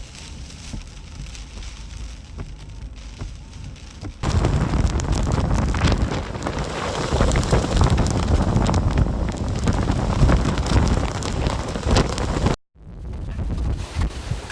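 Hurricane rain and wind, a dense steady wash of noise. It jumps abruptly louder about four seconds in and drops out briefly near the end.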